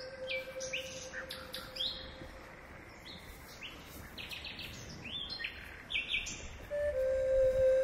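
Small birds chirping in quick short calls, many through the first two seconds and again from the middle on. Under them a held tone, like a singing bowl in background music, fades away and swells back near the end.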